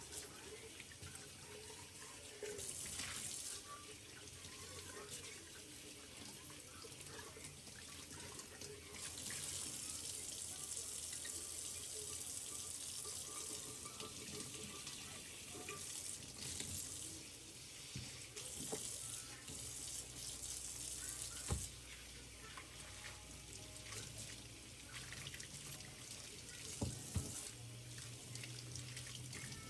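Kitchen tap running into a sink in several spells, starting and stopping, with a few sharp knocks in between.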